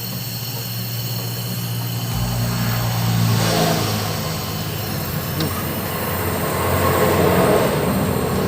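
Gas brazing torch flame hissing steadily against a refrigerator evaporator as filler wire is melted over a puncture leak, swelling twice, with a low steady hum underneath.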